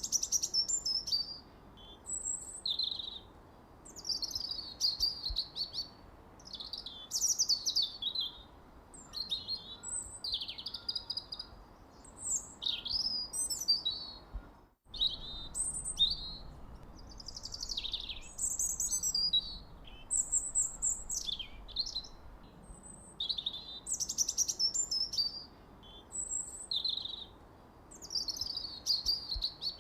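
Birds chirping in a quick, unbroken run of high chirps and sweeping phrases, with a brief break in the sound about halfway through.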